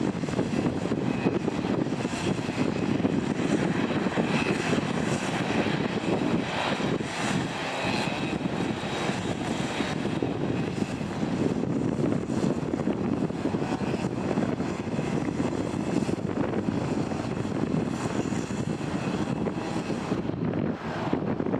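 Airliner engines running steadily: a broad, even rumble with a faint high whine over it.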